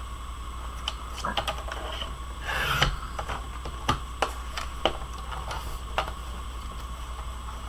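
Scissors snipping and paper being handled: scattered light clicks and a short rustle of cardstock about two and a half seconds in, over a steady electrical hum.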